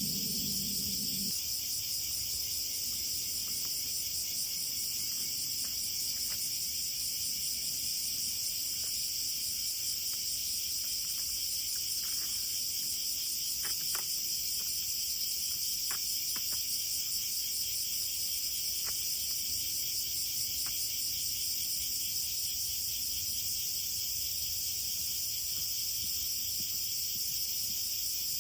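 A steady outdoor insect chorus of crickets chirping, high-pitched and unbroken, with a few scattered faint clicks.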